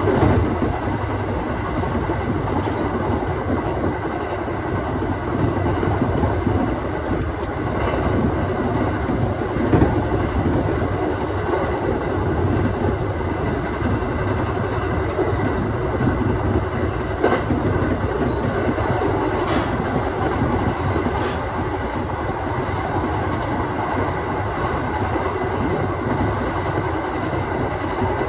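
Aoimori Railway 701-series electric train running along the line, heard from inside the front car: a steady rumble of wheels on rail with occasional sharp clicks over rail joints and a faint steady high tone.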